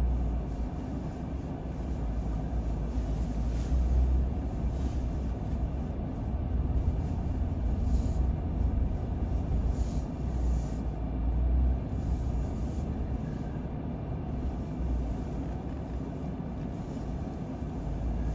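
Steady low rumble of a car driving, the engine and tyres heard from inside the cabin, swelling and easing every second or two.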